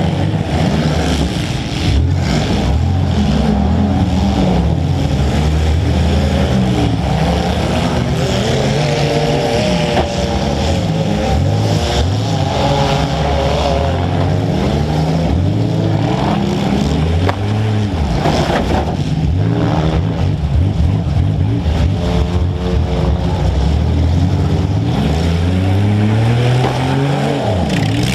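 Demolition derby car's engine, heard close up from a camera mounted on the car, revving up and down over and over as the car accelerates, backs and turns in the mud, with a few sudden knocks.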